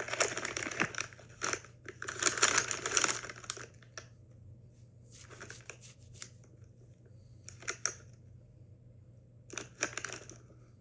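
A foil-lined Doritos chip bag crinkling as it is handled, in bursts: two longer ones in the first three seconds, then a few shorter, fainter ones.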